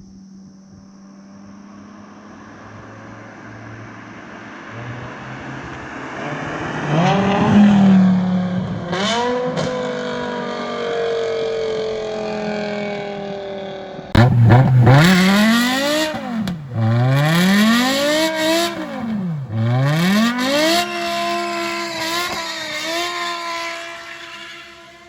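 BMW E60 M5's V10 through a custom exhaust, growing louder and revving up and down. About fourteen seconds in it comes suddenly louder, revving up and dropping back several times in quick succession, then fades away near the end.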